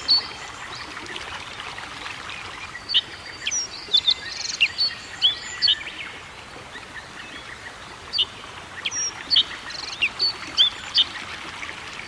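Small birds chirping in short, sharp calls, some rising or falling in pitch, scattered irregularly over a steady background hiss.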